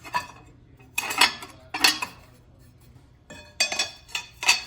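Steel parts being handled: several sharp metal-on-metal clinks and clanks at uneven intervals, most likely the index spacer and fixture parts of a super spacer being swapped and fitted.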